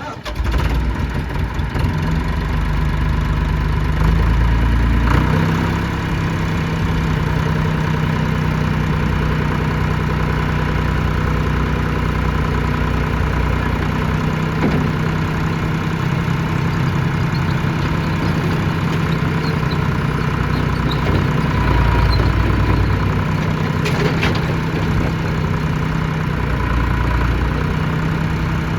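International 484 farm tractor engine running at a steady idle.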